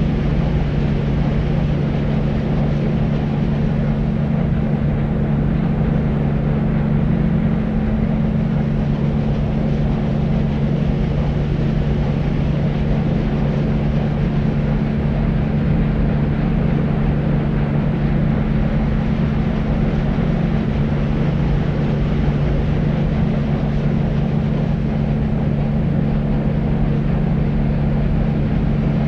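Deep white noise: a steady, unchanging low rumbling hiss, with its treble rolled off.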